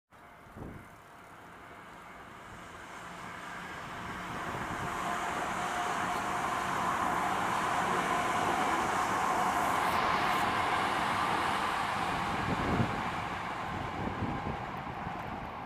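Hankyu Kyoto Line electric train approaching and passing: a rushing sound with a steady whine that swells over several seconds, is loudest a little past halfway, then fades.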